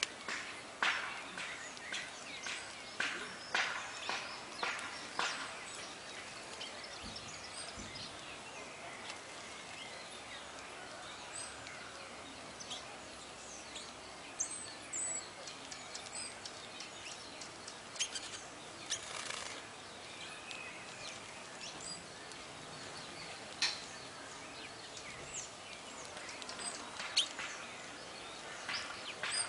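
Small songbirds giving short, sharp chirps and calls over a steady outdoor background hiss, with a quick run of calls in the first few seconds and scattered ones after.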